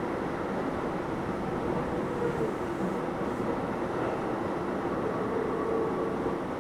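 Keio 7000 series electric commuter train running, heard from inside a passenger car: a steady rumble of wheels on rail with a faint motor tone wavering through it.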